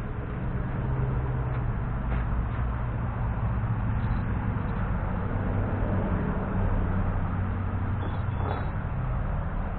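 A steady low mechanical hum, like a motor running, with a few faint light clicks over it.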